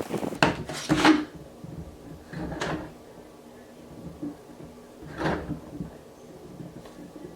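Snow shovel scraping and knocking as snow is cleared, four short strokes: two close together at the start, one near the middle and one later on.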